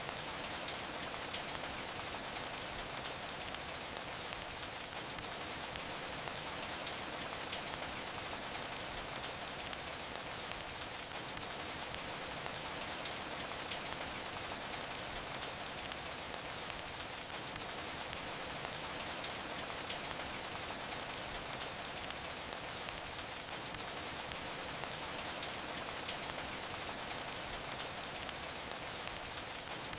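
Steady rain hiss mixed with the light crackle of a wood fire: many small ticks and a sharper pop about every six seconds.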